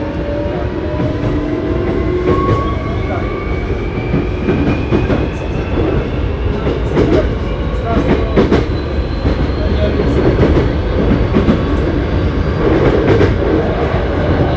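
Hankyu 7300 series electric train running, with whining tones from the drive that rise slowly and steadily in pitch as it gains speed. This is the car known for its unusual running noise. Rumble and scattered clicks of wheels over the rails run beneath.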